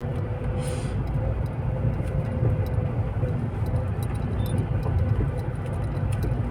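Steady low rumble of a car's engine and tyres heard from inside the cabin while driving, with a faint steady hum and light ticking rattles over it.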